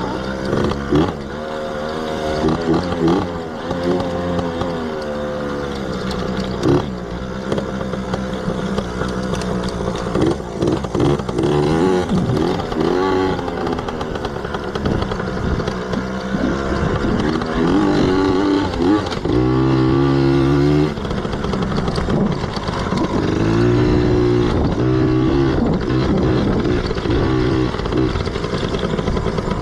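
Yamaha PW80's small two-stroke single-cylinder engine being ridden, its pitch rising and falling over and over as the throttle is opened and closed.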